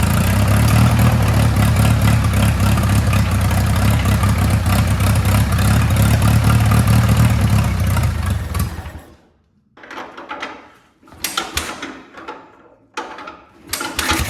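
Hercules IXA four-cylinder engine of a 1936 Silver King tractor running steadily on one of its first runs after an engine refresh, then shutting off abruptly about nine seconds in. A few short, scattered noises follow.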